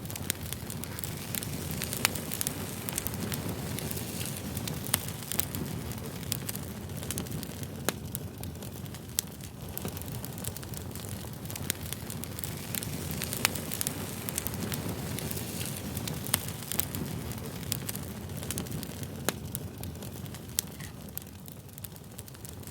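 Campfire burning: a steady low rumble of flames with frequent crackles and sharp pops from the burning wood.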